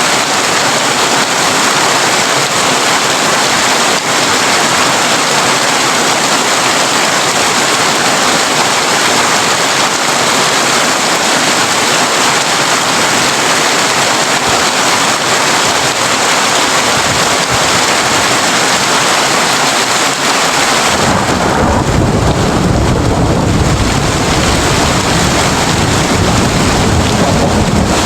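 Heavy rain falling on a tin roof, a steady hiss. About 21 seconds in, a low rumble of thunder comes in and runs on while the high hiss of the rain drops back.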